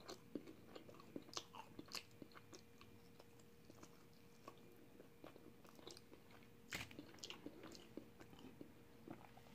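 Faint chewing and mouth sounds of a person eating sauce-covered fried chicken: soft, irregular clicks and smacks, with one louder click about seven seconds in.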